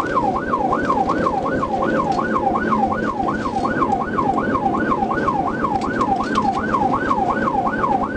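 Police car siren on its fast yelp setting, sweeping up and down about three times a second without a break, over steady road and engine noise from a high-speed pursuit.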